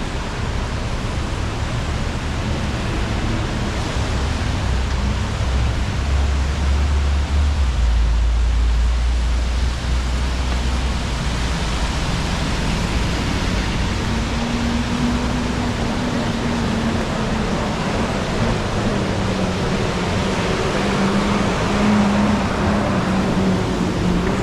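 Street traffic in the rain: a steady hiss of tyres on wet pavement, with a deep vehicle rumble building about six seconds in and fading by ten seconds, and a low engine hum later on.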